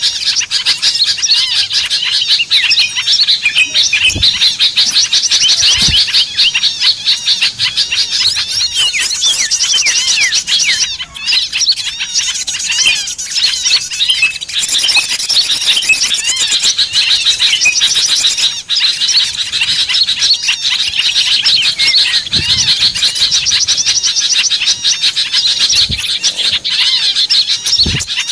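Bird-lure recording of many small birds chattering at once: a dense, loud, unbroken mix of fast high chirps and trills, the agitated flock noise played to draw wild small birds in. A few soft low thumps sound under it.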